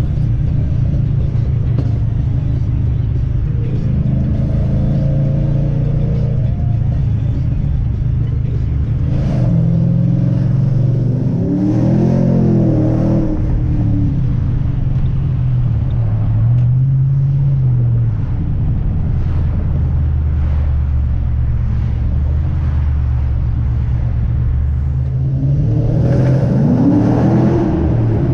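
2007 Ford Mustang GT's 4.6-litre three-valve V8 running while driving, through long-tube headers, an X-pipe and Borla S-Type mufflers with no catalytic converters. Its pitch climbs and falls a few times as it accelerates, about twelve seconds in and again near the end.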